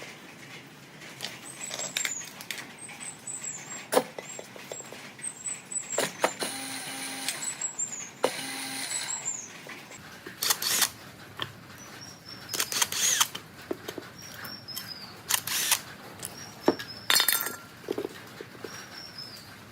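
Workshop handling of metal parts: irregular sharp clicks and knocks, with two short buzzes of a small power tool about seven and eight and a half seconds in. Small birds chirp again and again in the background, each call a short falling note.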